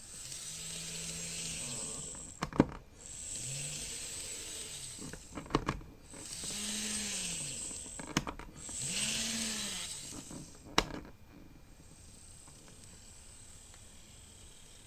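Greenmax N-gauge Hanshin 9000 series model train running in four short runs, each with a hum that rises in pitch and falls away as it speeds up and slows down, over a hiss. Sharp clicks sound between the runs.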